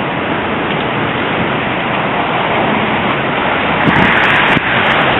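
Steady rushing outdoor noise of a snowstorm, growing a little louder about four seconds in.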